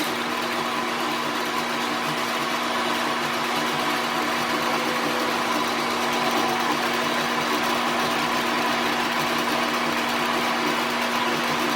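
A workshop machine's motor running steadily, with a constant hum.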